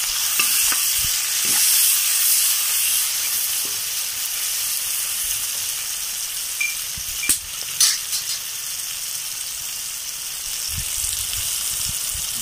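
Onions, tomatoes and green chillies with turmeric sizzling in hot oil in a kadai, a steady high hiss as the tomatoes fry down soft for a gravy. Two sharp clicks a little past halfway.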